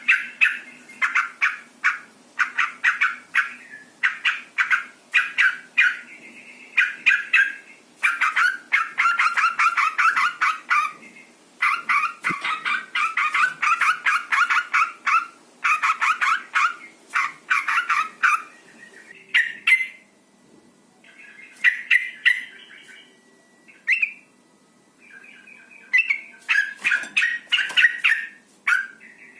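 Yellow-vented bulbul (trucukan) calling in bursts of fast, harsh chattering notes, broken by short pauses. It is the female's call that draws males to sing.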